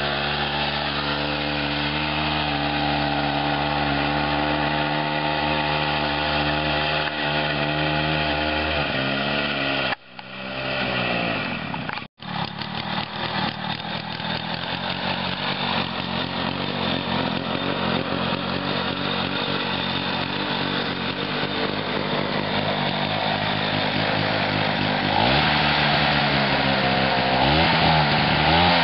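Lawn-Boy DuraForce two-stroke engine on a home-built racing lawn tractor, running steadily and then dropping in pitch. After a sudden break it runs rougher and slowly gets louder, its revs rising and falling near the end. It runs poorly, which the owners put down to a badly tuned carburettor and the missing expansion chamber.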